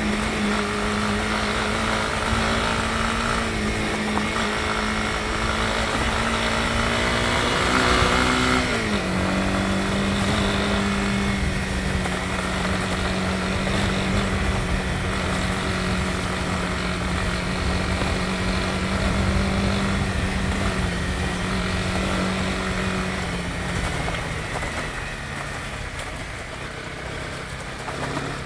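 Honda CB250R's single-cylinder engine running at steady riding revs. About eight seconds in, the revs rise briefly, then drop sharply as in an upshift, and hold steady again. Near the end the pitch and loudness sag as the throttle eases off.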